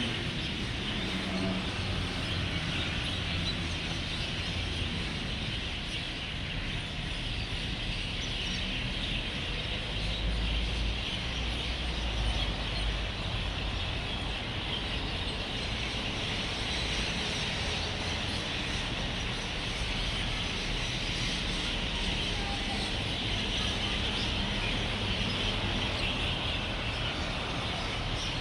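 A roosting flock of birds chirping and chattering continuously as a dense chorus, over the low rumble of road traffic, which swells as a vehicle passes about a third of the way in.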